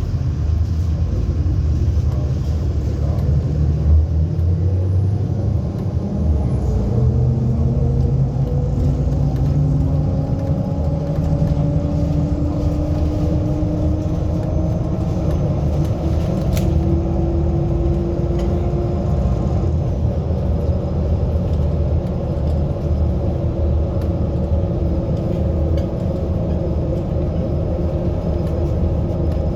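MAZ-107 city bus heard from inside while under way: a steady low engine and road rumble, with a whine that climbs slowly in pitch as the bus gathers speed and drops away a little past the middle.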